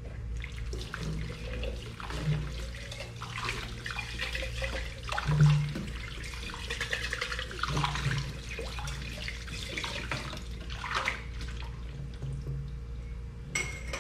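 Dishes being washed in a kitchen sink: water running from the tap with repeated clinks and knocks of dishes and utensils, one louder knock about halfway through.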